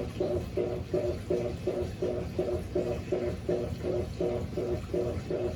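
Electrolux LAC16 top-loading washing machine agitating a high-water-level load, its motor (a 1/4 hp WEG motor from an LT13B) humming in an even pulsing rhythm of about three to four beats a second over a low rumble.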